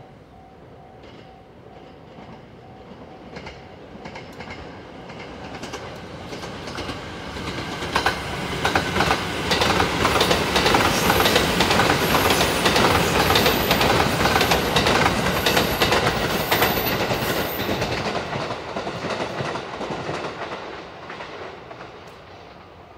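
JR 285 series Sunrise Seto sleeper train, an electric multiple unit, passing through a station at speed. The sound of its wheels on the rails builds over several seconds, then a clickety-clack of wheels over rail joints runs for about ten seconds as the cars go by, with short high-pitched squeals. It then fades away.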